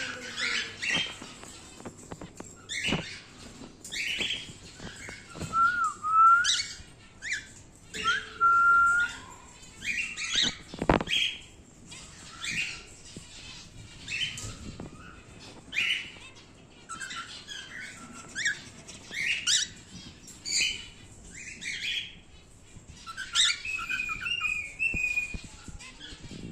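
Male normal grey cockatiel calling: a run of short, sharp chirps broken by a few longer whistled notes, one wavering whistle coming near the end. A couple of sharp knocks come through, one a few seconds in and another around the middle.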